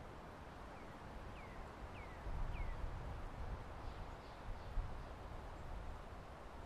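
A small bird chirping: four short falling chirps in quick succession, then a few fainter, higher chirps, over a low steady background rumble.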